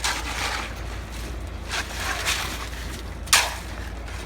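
Site noise during concrete work: three short bursts of scraping noise, the sharpest and loudest about three seconds in, over a steady low rumble.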